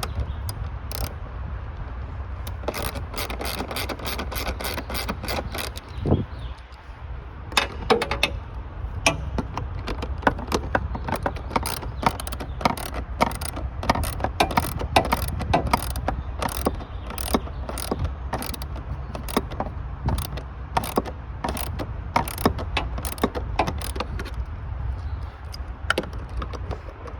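Hand ratchet clicking in runs of quick strokes, with a short pause about six seconds in, over a steady low hum.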